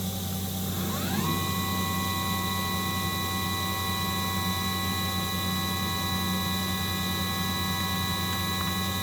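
The Matsuura MX-520's CAT 40 machining spindle spinning up to 5000 rpm on command: a whine rising for about half a second, about a second in, then holding at a steady pitch over the machine's constant hum.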